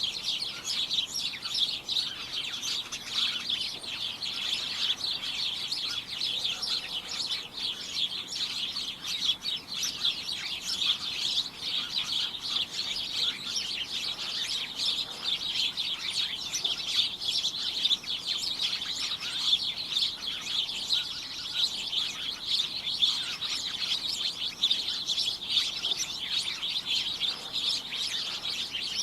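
A flock of small birds chirping continuously, many short overlapping high chirps at once in a busy chatter.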